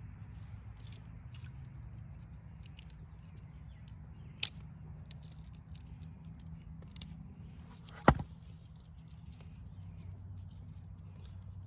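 Wood fire in a fire pit crackling with faint scattered ticks over a low steady rumble. There is a sharp pop about four seconds in and a louder pop about eight seconds in.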